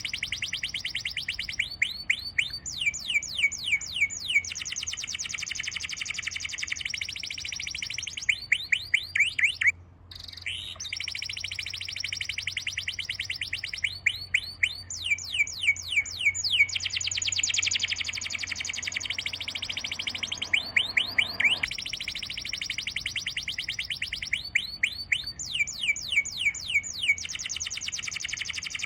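Birdsong: fast, even trills of high chirps, the same phrase coming back about every eleven seconds. There is a brief dropout about ten seconds in.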